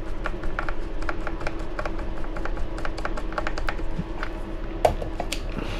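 Quick, light clicks and taps of small hand tools on small plastic and metal kit parts, about several a second and uneven, with a louder knock near the end, over a faint steady hum.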